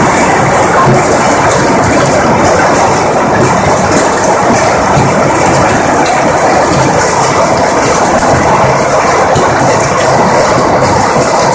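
Heavy rain with hail: a loud, unbroken clatter of countless hailstones and raindrops striking.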